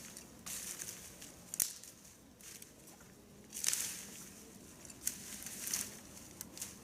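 Footsteps on a forest trail: each step is a brief crunch, coming about once a second at an uneven walking pace.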